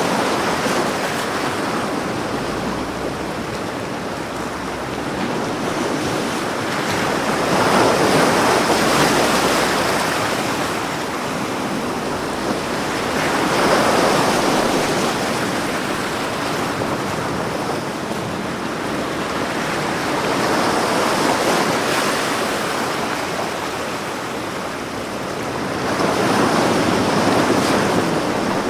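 Ocean waves breaking and washing up on a beach, each wave swelling and ebbing away, about one every six seconds.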